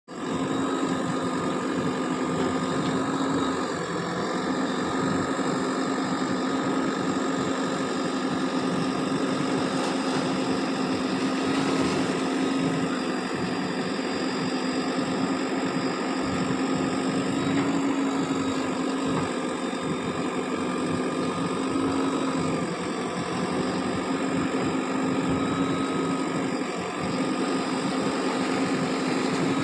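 JCB 3DX backhoe loader's diesel engine running steadily, its pitch wavering only slightly.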